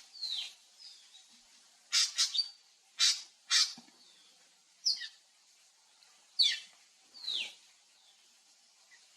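Drongo calling: a series of short, harsh, rasping notes mixed with brief downward-sliding whistles, given in irregular bursts over the first seven seconds or so.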